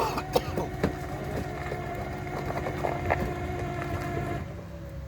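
A motor vehicle running steadily with a pitched mechanical hum and a low rumble, broken by a few sharp metallic clanks; the hum cuts off near the end.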